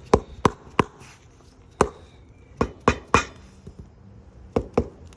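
About nine sharp taps of a tool striking flagstone, in small groups of two or three: the stones are being tapped down into their mortar bed to sit flush and level.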